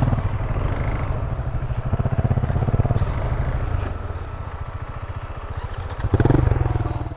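Single-cylinder dual-sport motorcycle engine running at low revs on an off-road trail, revving up briefly about six seconds in.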